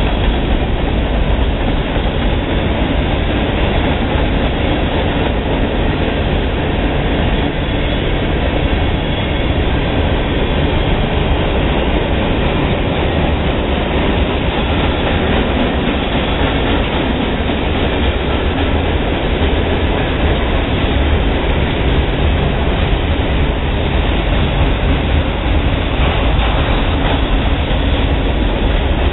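Freight cars of a mixed manifest train (covered hoppers, gondolas and boxcars) rolling past on steel wheels and rail, making a steady, loud rumble.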